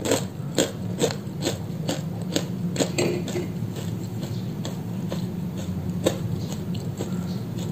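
Crunching as a bite of crispy batter-fried tempe is chewed close to the microphone: quick crisp crunches about three a second, thinning out after about three seconds, over a steady low hum.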